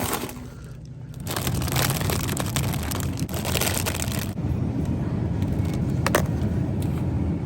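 A car driving: steady low road and engine rumble, building up about a second in, with a couple of brief ticks near the end.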